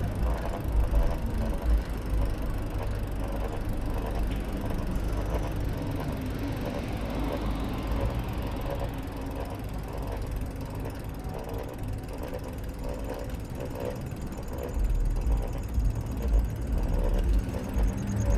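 Bicycle freewheel hub ticking rapidly as the bike coasts, over a steady low rumble.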